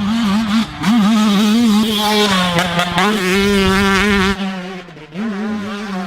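Two-stroke motocross bike engine running hard, its pitch wavering with the throttle. It dips briefly under a second in, then backs off around five seconds in and picks up again.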